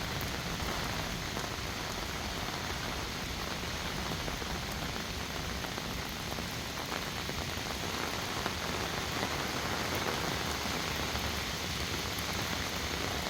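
Heavy rain falling steadily: a dense, even hiss of rain with scattered faint drop taps.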